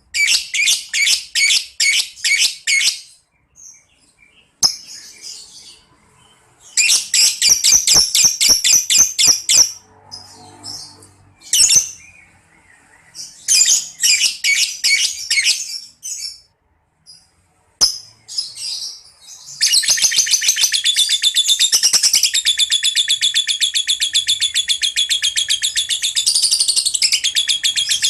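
Lovebird chattering in bursts of fast, repeated high chirps a few seconds long, then, from about two-thirds of the way in, breaking into one long unbroken trill of about nine seconds: the lovebird's 'ngekek' call.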